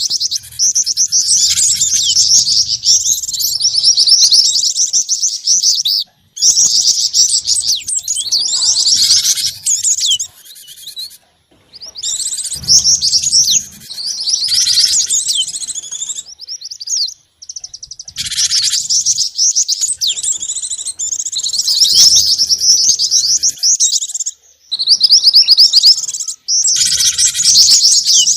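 Small songbirds chirping and calling in rapid, high-pitched runs, played as a bird-luring recording that mixes gelatik batu (cinereous tit), jingjing batu and mantenan songs. The phrases last several seconds each and are separated by short, sudden breaks.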